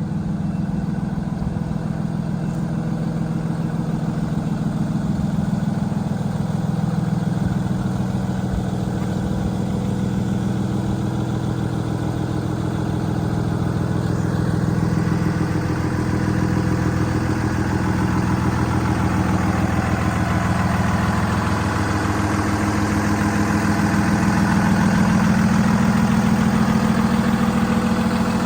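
Cummins 6.7 L turbo diesel in a Freightliner M2 bucket truck running steadily at idle. About halfway through, a higher hiss joins over the engine.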